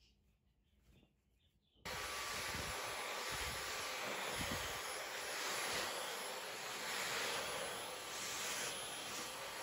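A vacuum cleaner switched on about two seconds in, then running with a steady rushing noise and a faint whine.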